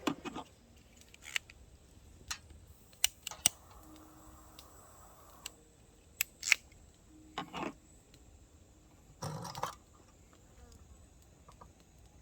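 Scattered light clicks and knocks, a second or so apart, from small objects being handled, with a short scraping rustle about nine seconds in.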